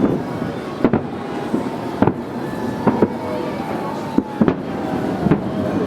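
Aerial fireworks shells bursting: a rapid series of booms, about one every half second to second.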